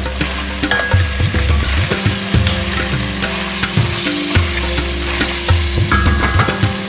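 Food sizzling as it fries in a pan, stirred with a utensil that clicks and scrapes against the pan every second or so.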